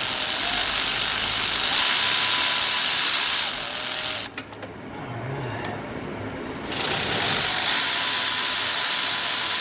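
Electric ratchet running, spinning a bolt in on the drive unit; it stops for about two seconds partway through, with a couple of clicks, then runs again.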